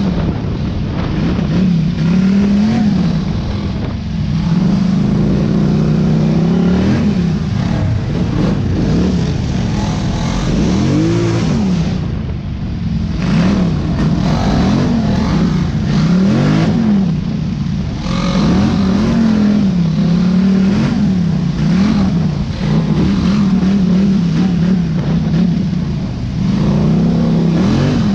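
Small off-road vehicle engine running hard, its pitch rising and falling again and again as the throttle is opened and eased off, about once every second or two.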